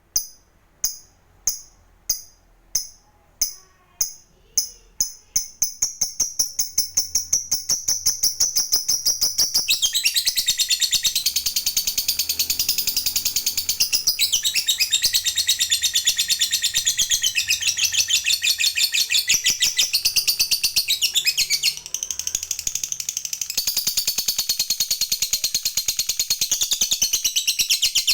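Lovebird doing its 'ngekek' chatter: sharp high chirps at first about one a second that speed up into a long, rapid, continuous trill about ten seconds in, breaking off briefly near the end before running on again.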